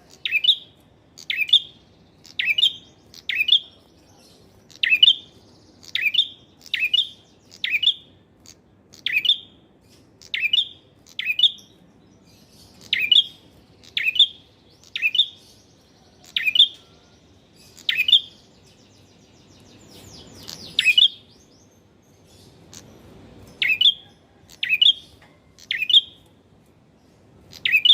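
Male prinia (prenjak) calling over and over: short, sharp chirps about once a second, with a brief pause and one rougher call about two-thirds of the way through.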